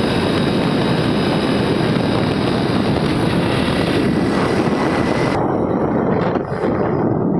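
Waterfall: a loud, steady rush of falling water. The higher hiss drops away abruptly about five seconds in, leaving the lower rush.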